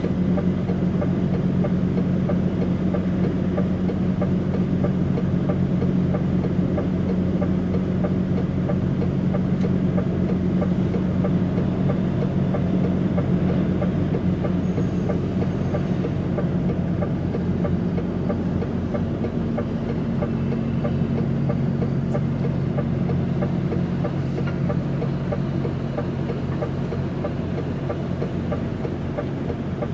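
Truck engine drone and rumble heard inside the cab of a DAF XF105.460 tractor unit, steady and loud, with the engine note shifting slightly a little past halfway.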